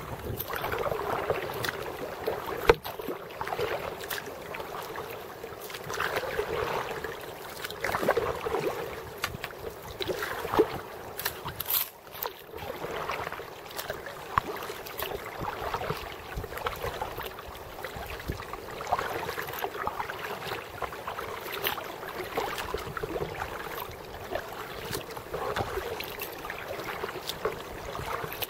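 Kayak paddle strokes: the blade dipping and pulling through the water with a swishing splash about every two seconds, plus a few sharp knocks.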